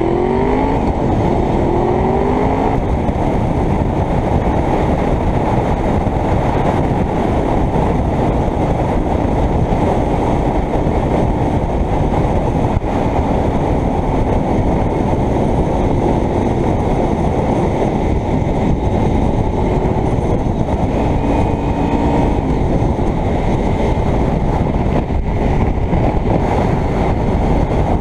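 Honda VFR V4 motorcycle ridden at speed, heard from a helmet camera: a steady rush of wind over the microphone with the engine running underneath. The engine pitch climbs briefly in the first couple of seconds.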